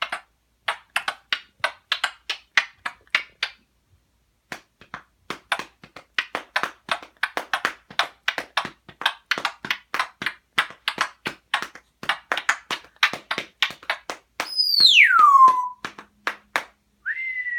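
African grey parrot tapping out a quick, steady beat, about three to four taps a second, with a short break a few seconds in. Near the end it gives a loud whistle that falls steeply in pitch, then starts a shorter whistle.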